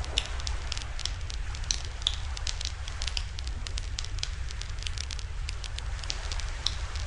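Wood fire crackling, with irregular sharp pops, a few louder ones, over a steady low rumble.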